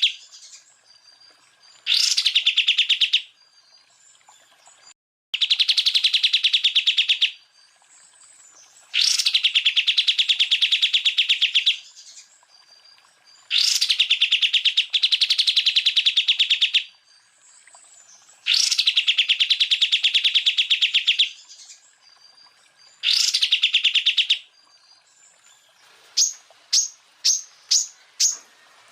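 Cucak ijo (greater green leafbird) song: a run of fast, rattling trills of one to three seconds each, repeated with short pauses, the rapid 'tembakan' bursts. Near the end it switches to a quick series of six short, sharp rising notes.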